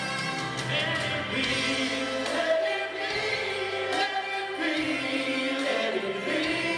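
Choir singing held harmonies over band accompaniment.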